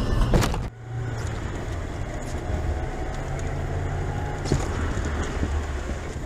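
Steady low engine and road rumble of a moving car. It drops abruptly less than a second in, then carries on more evenly.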